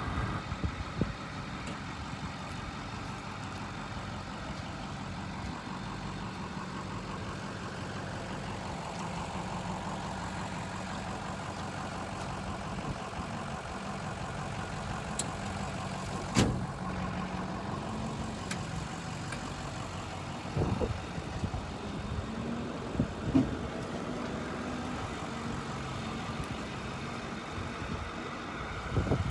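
Ford F450 truck engine idling steadily, with one sharp knock about 16 seconds in and a few short thumps later on.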